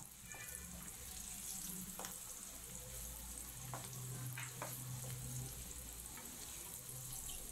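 Peeled garlic cloves frying in hot oil in a wok, a faint steady sizzle, with a few light taps of a wooden spatula as they are stirred.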